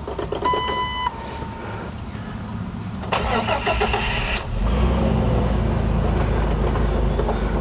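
A warning chime beeps briefly, then the 2006 Jeep Wrangler's starter cranks the engine about three seconds in. The engine catches quickly and settles into a steady idle.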